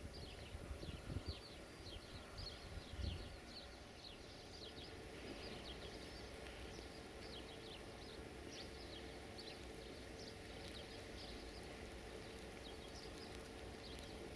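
Faint outdoor ambience of birds chirping in quick, irregular calls. A faint steady hum comes in about four seconds in.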